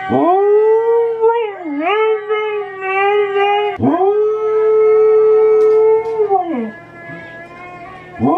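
Husky howling: long drawn-out howls that rise at the start, hold steady and slide down at the end, the first with a dip in pitch midway. After a quieter spell a new howl starts near the end.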